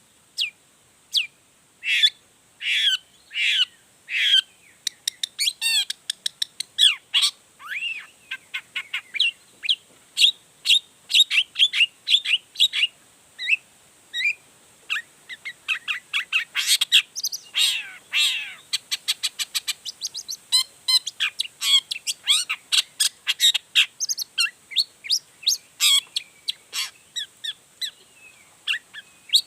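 Long-tailed shrike (cendet) singing energetically: a fast, varied stream of short sharp chirps, whistles and quick trills, running through its repertoire of song material.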